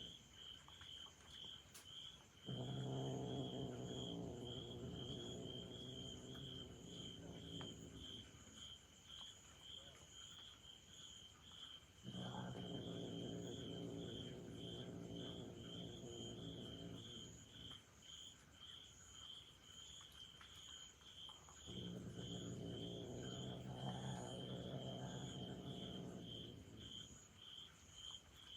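Angry cat growling: three long, low, drawn-out growls of several seconds each, separated by short pauses. An insect chirps steadily in the background, about twice a second.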